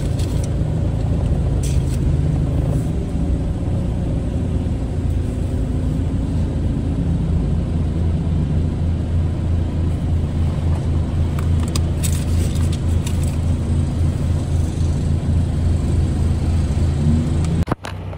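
Car engine running steadily, heard from inside the cabin as a low hum, with a few faint clicks. The hum drops off abruptly near the end.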